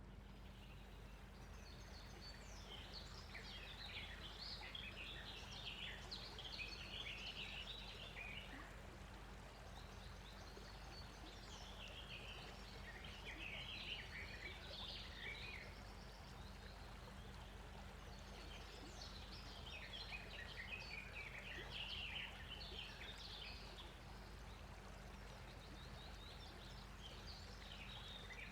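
Faint chirping of birds, in bouts of a few seconds each, over a steady low hiss.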